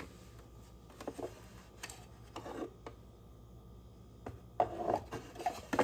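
Light knocks and clicks of wooden pieces being handled and set against one another, scattered at first and bunching together near the end, over a faint steady hum.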